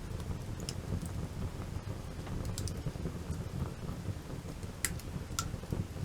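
Wood campfire crackling, with scattered sharp pops and snaps over a steady low rumble; the loudest snaps come near the end.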